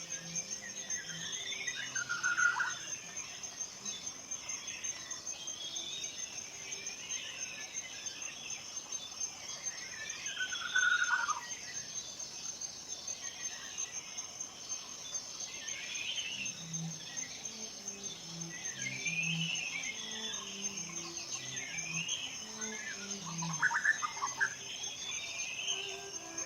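Forest ambience: songbirds call in repeated falling phrases every few seconds, over a steady high-pitched insect trill. Soft low music notes play underneath, mostly in the second half.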